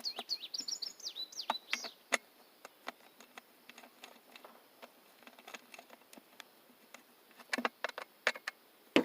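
Birds chirping for the first two seconds, then scattered sharp clicks and light knocks of parts and hand tools being handled while a part is bolted onto an outboard motor, with a louder run of knocks near the end.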